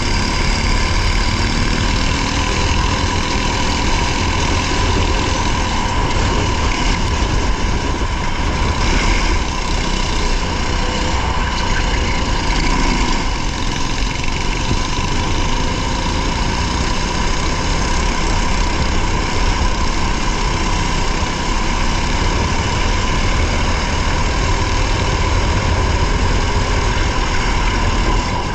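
Race car engine heard from inside the car while driving, running steadily with its pitch wavering slightly, over a heavy low rumble of road noise.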